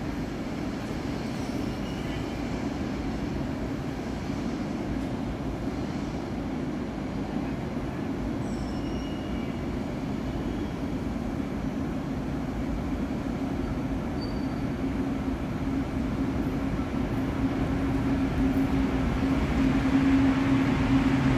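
Electric commuter train running at a station platform: a steady rumble and low hum that grow gradually louder toward the end.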